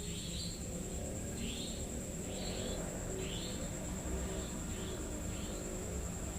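Night insects: a steady high-pitched drone with short chirps repeating about once a second, over a low rumble.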